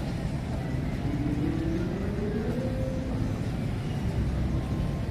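Steady low rumble of city traffic. Between about one and three seconds in, one vehicle's engine rises in pitch as it accelerates.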